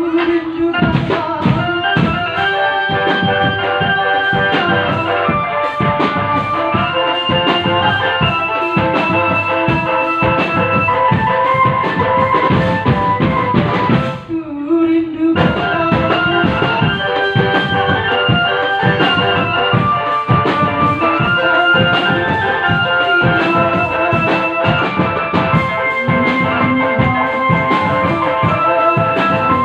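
Drum band playing: dense, fast drumming under a held, organ-like melody. The music drops out briefly about halfway through, then starts again.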